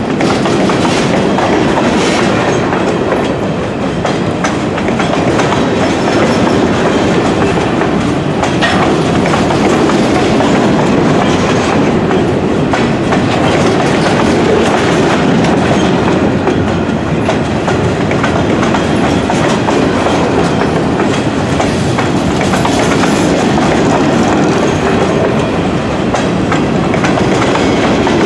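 Covered hopper cars of a freight train rolling past: a steady rumble of steel wheels on the rails, with the wheels clicking over rail joints.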